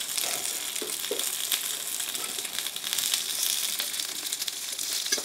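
Ghee sizzling and crackling around paddu frying in a paddu pan (appam mould), steady throughout.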